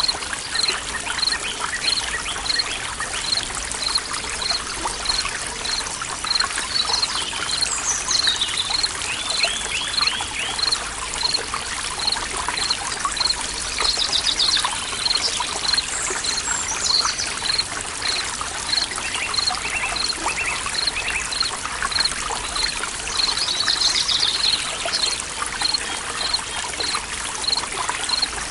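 Forest ambience: water trickling steadily, with a short high chirp repeating evenly about every 0.7 seconds and several birds calling over it now and then.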